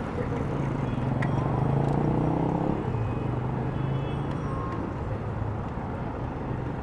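A motor vehicle passing along a city street, its engine hum swelling to its loudest about two seconds in and then fading away, over steady traffic noise.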